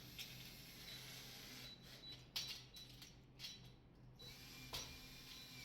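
Faint clicking and rubbing of hand work on a fitting, with two sharper clicks, over a steady low hum.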